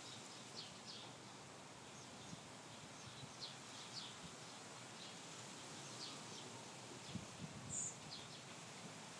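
Small birds giving short, high chirps scattered irregularly, with one higher note near the end, over a faint steady hiss. A few soft low thumps come near the end.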